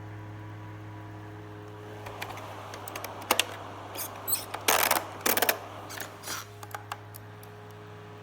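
Small battery camping fan running with a steady hum, overlaid from about two seconds in to about seven seconds in by a run of sharp clicks and clattering handling noises.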